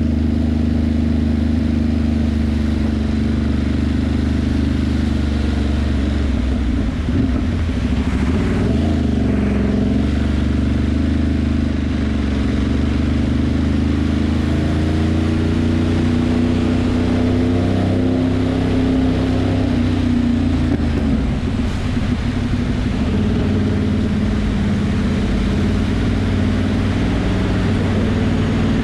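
Ducati Monster's V-twin engine running under way, its pitch rising and falling a couple of times as the rider speeds up and eases off, over a steady hiss of wind and wet road.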